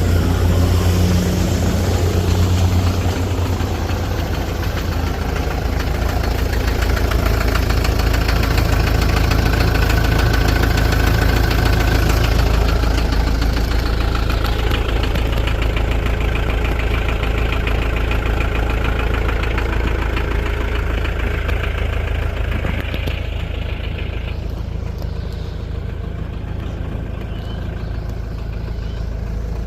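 Four-cylinder diesel engine of a 2002 Mitsubishi Fuso box truck idling steadily shortly after a cold start at about 27 degrees. A higher hiss over the engine note fades away near the end.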